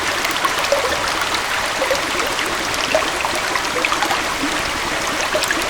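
Gentle waterfall and forest stream flowing steadily: an even rush of water with many small splashes and bubbling plinks scattered through it.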